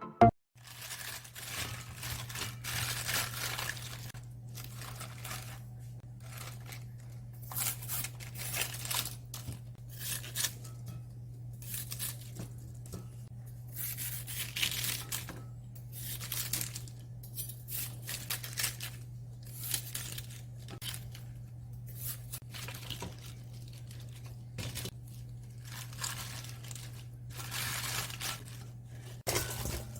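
Napa cabbage leaves being pulled apart and handled: irregular crisp tearing and rustling bursts over a steady low hum.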